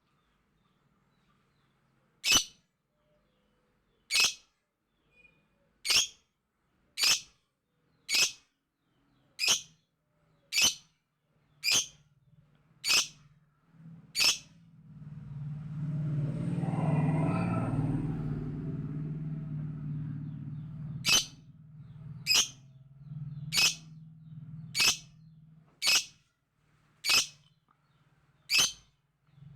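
Lovebird giving sharp, shrill single chirps, one roughly every second, in a long series. In the middle the calls stop for several seconds while a low rumbling noise swells and fades, then the chirping resumes.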